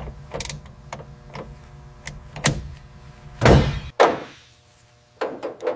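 Car door work: a few light clicks and knocks, then one loud, heavy thunk about three and a half seconds in, like a car door shutting, followed by a few more short knocks near the end.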